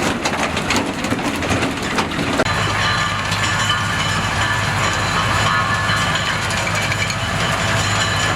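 Pruning round baler running behind its tractor in the field. For the first two seconds or so there are dense clicks and crackles. The sound then changes abruptly to a steady machine drone with a whine.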